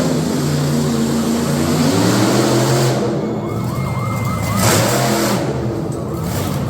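Monster truck engine revving hard, its pitch climbing and dropping repeatedly, with a brief high whine in the middle.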